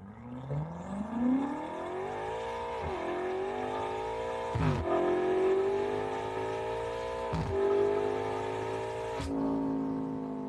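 Car engine accelerating hard through the gears: the pitch climbs, dips sharply at four upshifts about two seconds apart, and pulls up again after each.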